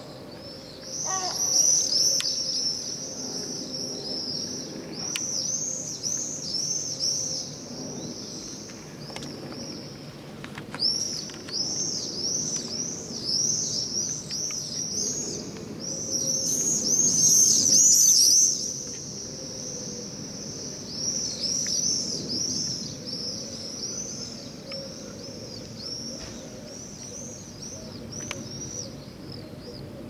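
Small birds chirping: many short high chirps in quick succession, loudest around seventeen seconds in, over a faint low background hum.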